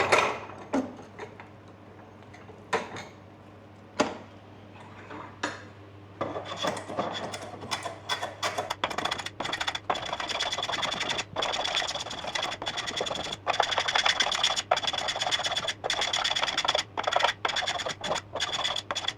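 Hand plane shaving a wooden snooker cue butt, taking off the corners of a newly fitted ebony splice in repeated strokes about once a second. A few separate knocks of handling come first, in the opening six seconds.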